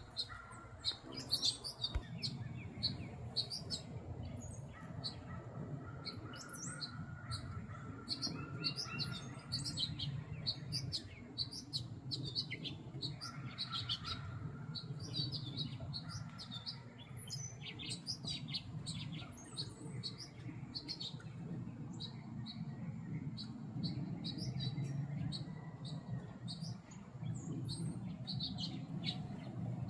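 Small songbirds chirping, with many short, high calls scattered throughout, over a steady low rumble.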